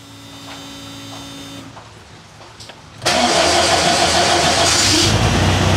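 Turbocharged air-cooled VW Beetle flat-four engine cranked on the starter about three seconds in, firing up and running about two seconds later. It is the first start after an oil change, made to see whether oil pressure builds in the full-flow oil system.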